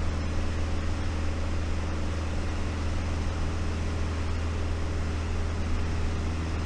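Small propeller aircraft's engine and propeller running steadily, heard inside the cockpit: a constant low hum with an even hiss of airflow over it.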